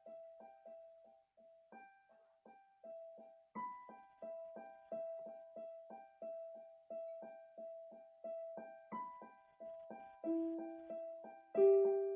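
Calm piano music: a high note repeated about three times a second under slowly changing upper notes. Deeper, louder notes come in near the end.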